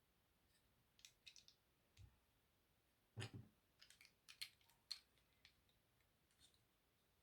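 Plastic Lego pieces clicking and knocking as they are handled and pressed together: a few light clicks, one heavier knock a little past three seconds, then a quick run of clicks.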